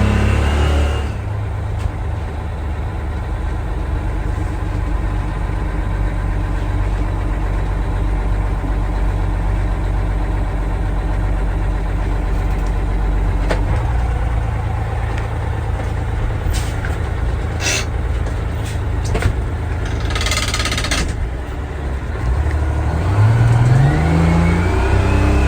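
Detroit Diesel 6V92 turbo two-stroke V6 in a Kenworth truck idling after a cold start. It drops back to idle from a rev about a second in and revs up again near the end. About twenty seconds in there is a short hiss of air lasting about a second.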